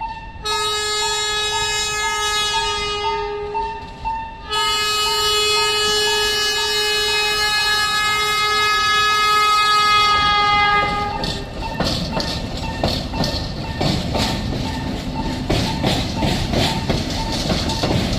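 A level crossing bell rings in steady pulses throughout. The DD401 locomotive sounds two long whistle blasts, a short one and then one of about six seconds. From about twelve seconds in the locomotive passes, its wheels clattering rhythmically over the rail joints while the bell keeps ringing.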